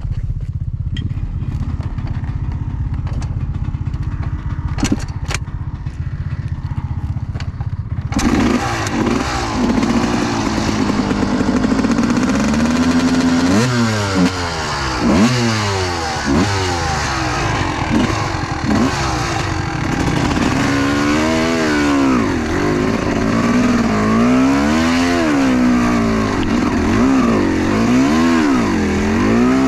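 Two-stroke enduro motorcycle engine. A low, muffled rumble with a couple of clicks gives way about eight seconds in to the engine running loud, then revving up and down again and again as the bike is ridden.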